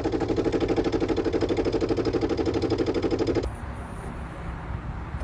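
The car makes a rapid, even pulsing buzz, which the owner calls farting, cutting off suddenly about three and a half seconds in.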